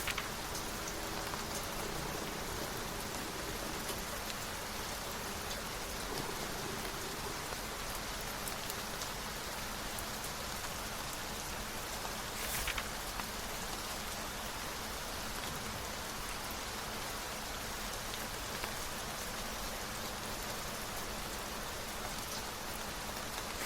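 Steady rain falling on a surface, an even continuous patter, with one brief louder burst about halfway through.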